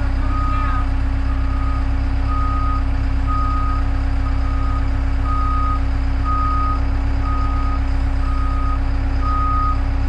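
A machine's backup alarm beeping while the machine reverses, about one beep a second, each beep about half a second long. Under it a diesel engine runs steadily.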